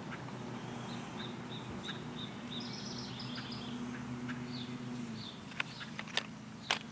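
A small bird calling: a run of about seven short, evenly spaced chirps, then a few higher notes. Under it is a low steady hum that stops about five seconds in, and several sharp clicks come near the end.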